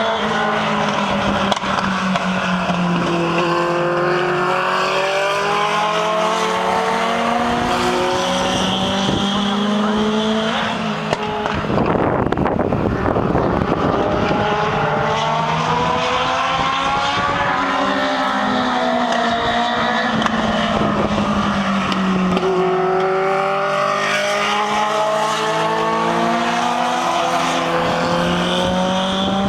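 Legend race car's engine at speed on an oval track, its pitch rising and falling again and again as it laps. About a third of the way through the engine tone gives way to a few seconds of loud rushing noise before the rising and falling comes back.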